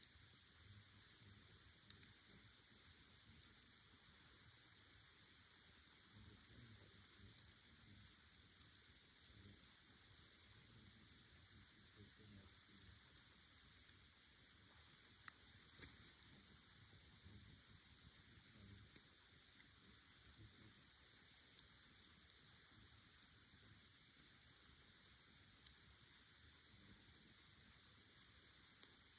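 Steady, unbroken high-pitched chirring of a chorus of crickets on a summer night, with a few faint clicks.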